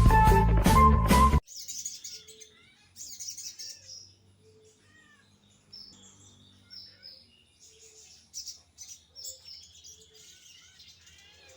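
A loud burst of music cuts off abruptly about a second and a half in. After it, a sogon bird (manuk jeit) chirps and whistles in short, irregular calls, much fainter than the music.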